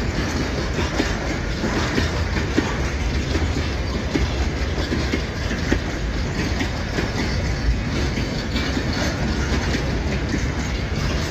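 Empty freight train rolling past, its steel wheels knocking and clattering over the rail joints in a steady run of clicks over a low rumble.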